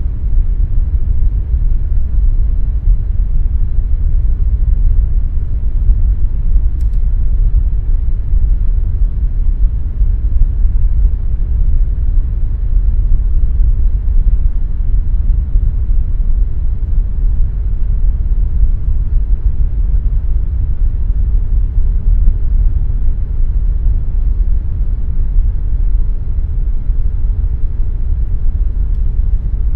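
Air conditioner running steadily: an even, deep rushing rumble with a faint steady hum above it.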